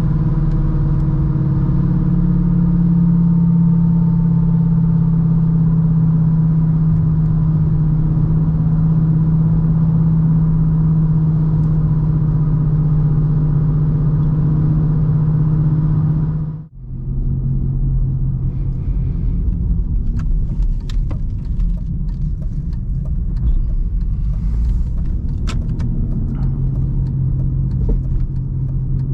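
BMW 316i E46 four-cylinder petrol engine and road noise while driving, a steady low drone. About two-thirds of the way through the sound dips out for a moment, then the drive goes on with scattered light clicks and rattles.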